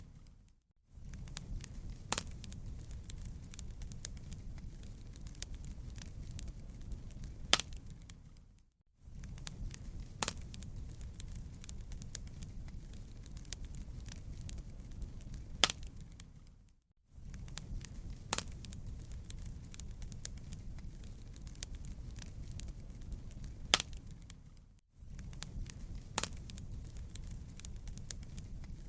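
Wood fire crackling in a fireplace: a steady low rumble with frequent small crackles and an occasional sharp pop. The sound fades out to near silence for under a second about every eight seconds, then comes back.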